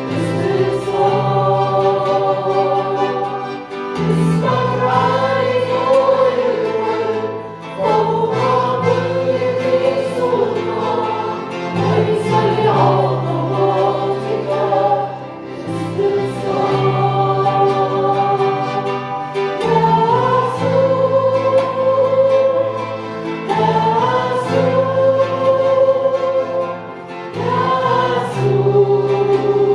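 A congregation singing an Arabic worship hymn together with instrumental accompaniment, in phrases a few seconds long.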